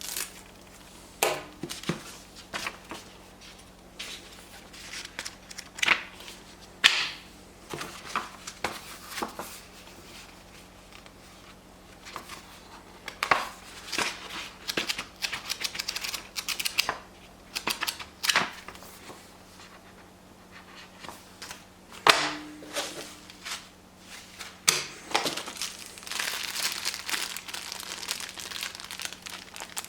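Packaging being unpacked by hand: irregular crinkling and rustling with scattered sharp clicks and knocks, turning into a longer stretch of continuous crinkling near the end.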